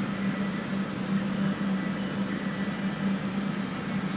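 Studio fans running steadily to draw off soldering fumes: an even rush of air with a low steady hum.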